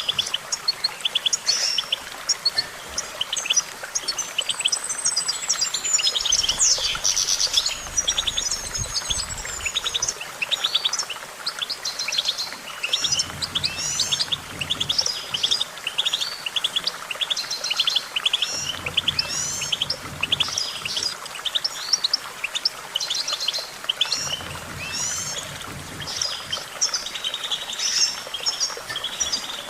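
European goldfinch singing: a long, unbroken run of fast twittering chirps and trills.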